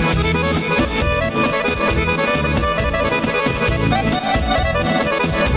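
Instrumental folk band music led by accordion, with a steady bass beat.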